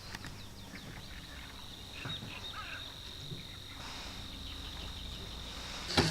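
Birds chirping here and there over a steady high-pitched whine and a low rumble.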